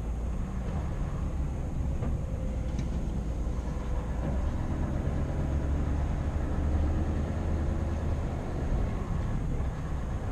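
Scania R520 truck's V8 diesel engine running steadily on the move, a low drone with road noise.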